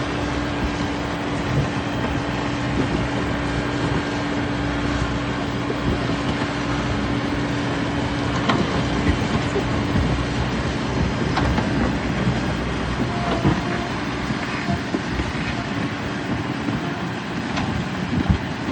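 JCB backhoe loader's diesel engine running steadily under working load, with a steady hum that stops near the end. A few sharp metallic knocks stand out over it.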